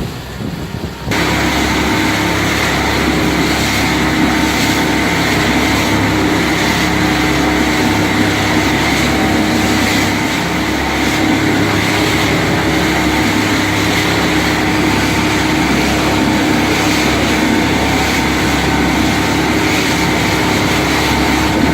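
Speedboat engine running steadily at speed, with rushing wind and water. It comes in abruptly about a second in and holds level.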